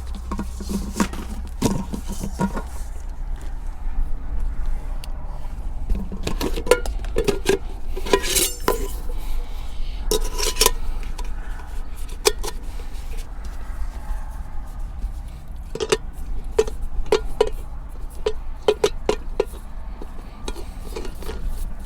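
A steady low wind rumble against the truck topper, with scattered clinks and knocks of camp cookware and utensils being handled, some ringing briefly, in two busy spells.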